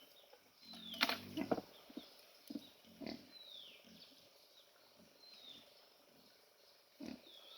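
Pigs grunting faintly, with scattered short knocks and several high, falling chirps.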